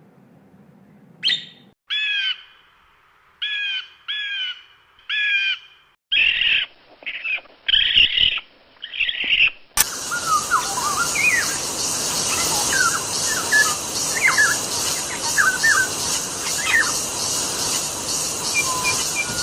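A run of bird recordings. First a jay gives about five harsh warning calls. Then a kingfisher gives rasping alert calls, and from about ten seconds in a bird sings short sliding whistled notes over a steady, fast-pulsing high hiss.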